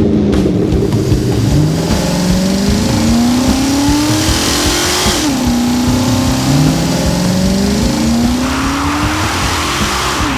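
Engine sound effect of a motor vehicle revving up in pitch several times, as if pulling through gears, with a short drop before each new climb. A hiss of tyre noise comes about four seconds in and again near the end.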